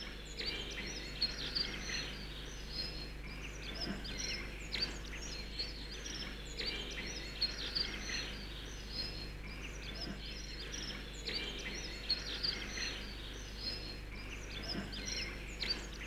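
Outdoor ambience of many small birds chirping and calling in short, scattered notes, over a faint steady low hum.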